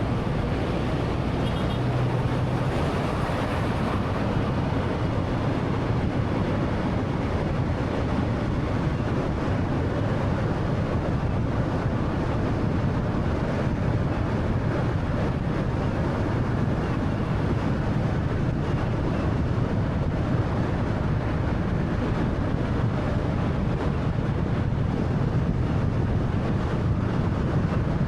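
Steady road noise from a 2013 Honda Fit's 1.3-litre engine and tyres while driving along at an even pace, a constant low hum with rushing wind.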